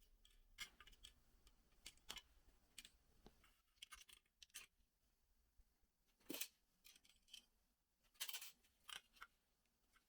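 Faint, irregular clicks and short scratching sounds of small parts and tools being handled, loudest about six and eight seconds in.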